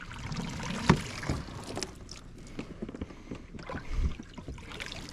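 Knocks, bumps and scuffs on a kayak as it is handled and shifted on the water. There is one sharp knock about a second in and a dull low thump about four seconds in.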